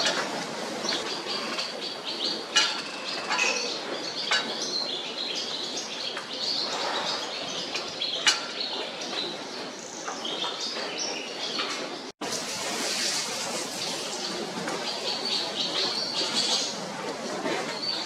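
Barn swallows twittering: rapid runs of high chirps and warbles, with a few sharp clicks among them. The sound breaks off for an instant about twelve seconds in.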